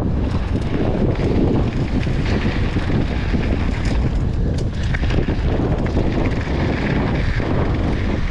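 Wind buffeting the microphone of a camera on a mountain bike rider at speed, a loud, steady rumble with scattered clicks and rattles from the bike on the trail.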